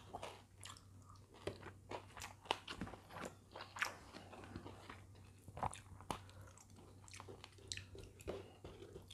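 A person chewing food with irregular crisp crunches and small mouth clicks, along with fingers mixing rice on a plate.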